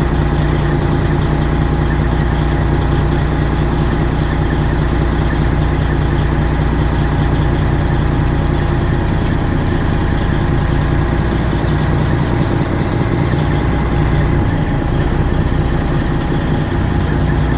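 Straight-piped Detroit Diesel 12.7-litre engine of a Freightliner Classic XL semi truck idling steadily.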